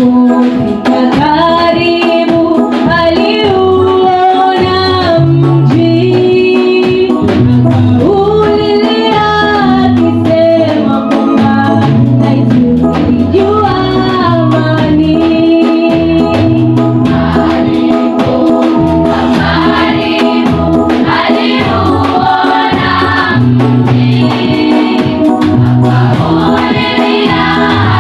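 A choir singing a gospel song over an accompaniment with a moving bass line.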